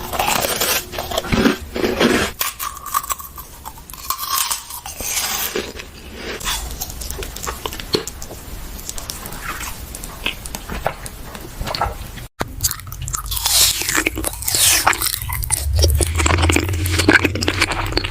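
Close-miked eating: crunchy bites and chewing, with irregular crackles and smacks. The sound cuts out for an instant about twelve seconds in.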